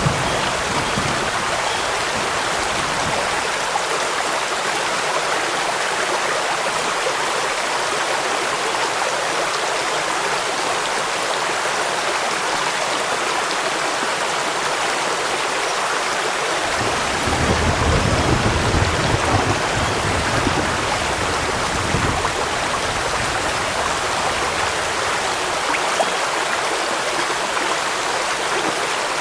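Steady rushing water of a waterfall and stream with rain falling, an even hiss. About two-thirds of the way through, a deeper rumble swells for a few seconds and then fades back.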